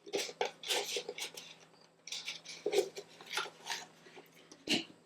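A small box opened and its contents handled: an irregular run of light clicks, taps and knocks.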